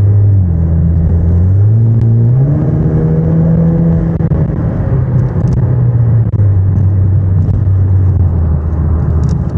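2018 Camaro's 2.0-litre turbocharged four-cylinder, fitted with a cold air intake and a muffler delete, heard from inside the cabin while driving: a loud, deep drone whose pitch steps down about half a second in, climbs around two to three seconds in, and drops again a little past six seconds.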